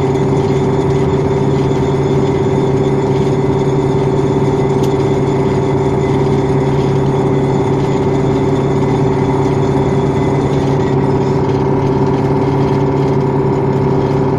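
KAMAZ 5511 dump truck's V8 diesel engine running at a steady, unchanging speed while the truck drives, with a constant low hum.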